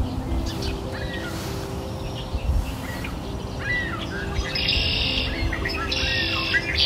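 Birds chirping with short whistled calls, then from about halfway a high trill repeated roughly once a second, over soft background music with long held notes.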